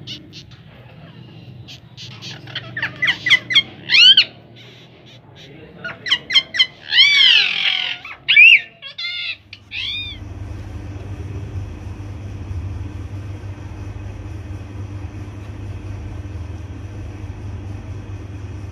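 Parrot chick squawking: loud, short, arching calls in rapid series for about the first ten seconds. After that there is a steady low hum.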